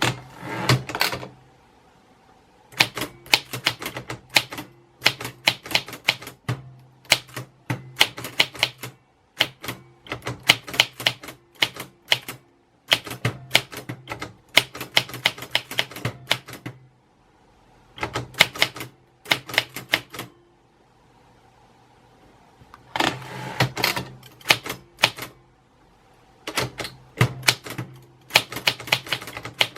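Typewriter keys being struck, clacking in quick runs of keystrokes broken by pauses of one to two seconds.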